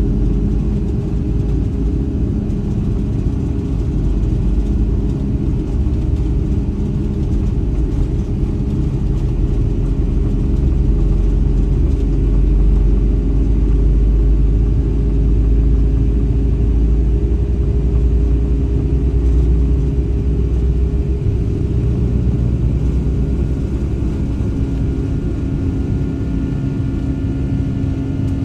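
Boeing 757-300 jet engines at takeoff power, heard from inside the cabin: a loud, steady low rumble with a constant hum. It swells about ten seconds in and eases slightly near the end.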